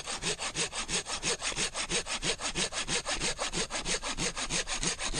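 Silky Gomboy 270 folding pruning saw cutting through a piece of firewood, with quick, even back-and-forth strokes.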